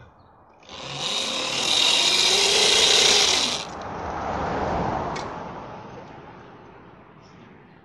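Homemade electric motorbike powered by a car alternator running as a motor, accelerating hard with a loud whirring whine that rises a little in pitch. About three and a half seconds in the high whine cuts off suddenly, and the remaining whir fades away as it goes off.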